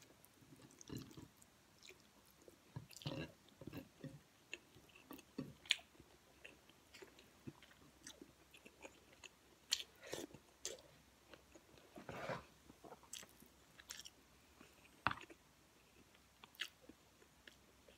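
A person chewing a mouthful of rice and kare-kare, with soft, irregular wet mouth clicks and smacks; a few sharper clicks stand out.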